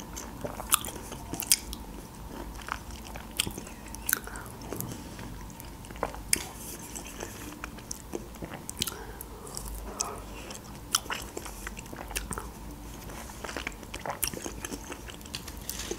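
Close-miked chewing of a mouthful of spicy chicken wing with the mouth closed: small wet smacks and crunchy clicks at an irregular pace.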